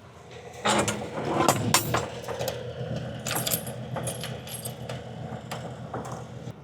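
Semi truck's diesel engine idling steadily, with a run of metallic clanks and rattles starting about a second in, the loudest cluster soon after.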